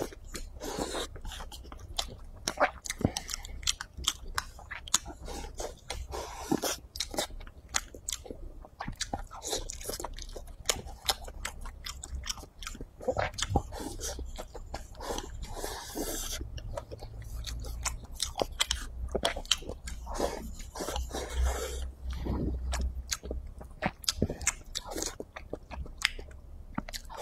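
Close-miked chewing of big mouthfuls of braised beef brisket, potato and rice: wet, irregular chewing with many small mouth clicks.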